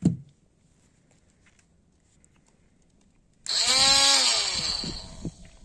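Mini grinder starting suddenly about three and a half seconds in, running with a high whine and a hiss of abrasive grinding against a wood screw; its pitch sags and it fades away over the next two seconds. A single sharp knock right at the start.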